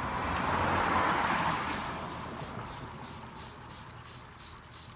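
A motor vehicle passing by on a nearby road: a broad rushing sound that swells to its loudest about a second in and then fades away.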